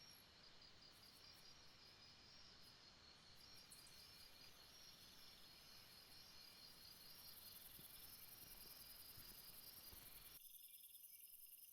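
Faint night insect chorus: crickets chirping in steady pulses, joined about a third of the way in by a very high, rapid buzzing insect. The soft background hiss under them cuts off suddenly near the end.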